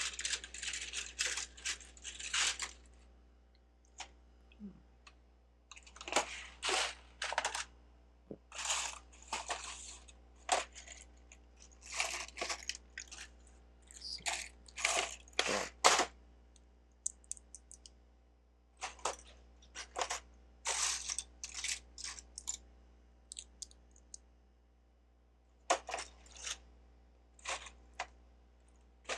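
Plastic Lego bricks clattering and clicking as they are handled and sorted by hand, in short irregular bursts with pauses between.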